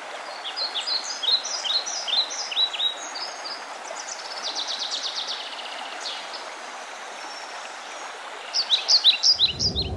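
Wild birds singing: clusters of short falling chirps, a fast trill in the middle and another quick burst of chirps near the end, over a steady rushing background. A low rumble comes in just before the end.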